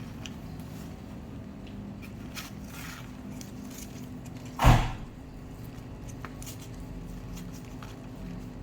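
A single loud knock or bang about halfway through, over a steady low hum, with a few faint clicks around it.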